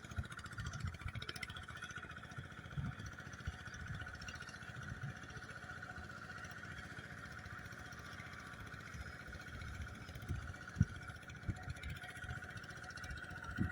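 Kubota KRT140 two-wheel walking tractor running steadily while pulling a paddy roller, with wind buffeting the microphone in irregular low gusts.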